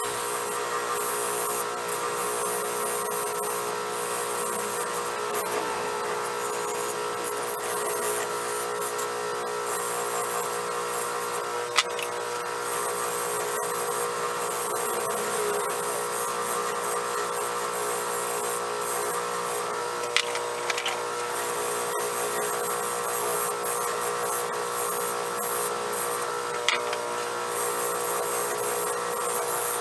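Electric motor spinning a fiber polishing wheel with a steady hum, while steel chisels are held against the wheel, giving a hiss that comes and goes. A few sharp clicks stand out, about twelve, twenty and twenty-seven seconds in.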